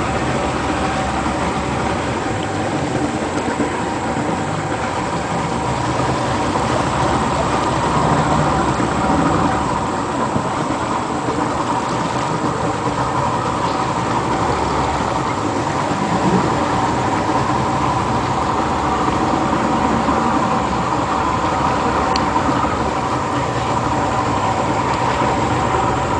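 An engine running steadily with an even drone, without changes in pace or pitch.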